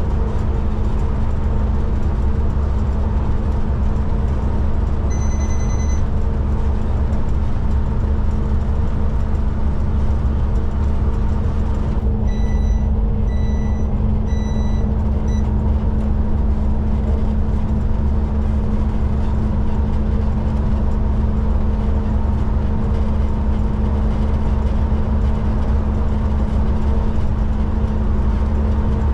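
Cummins diesel and road noise of a Kenworth K200 cabover truck droning steadily inside the cab while driving. One electronic beep sounds about five seconds in, and four short beeps follow a little past the middle.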